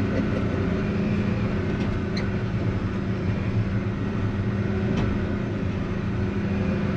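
Tractor-backhoe engine running steadily at a low, even speed while the machine creeps along.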